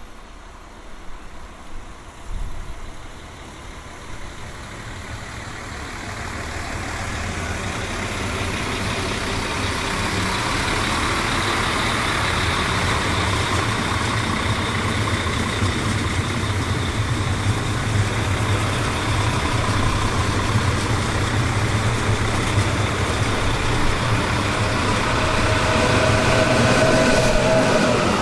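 Train approaching, its running noise and low rumble growing steadily louder, with a whine coming in near the end.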